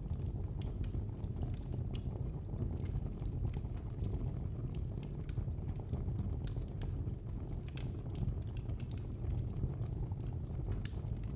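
Wood fire burning steadily: a low roar of flames under frequent small, irregular crackles and pops.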